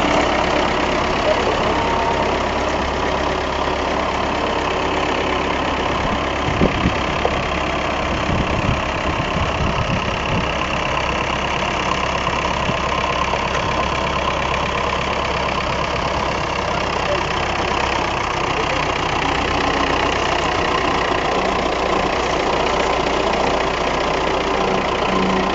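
Tractor engine running steadily at a constant speed, with a couple of brief knocks about six to seven seconds in.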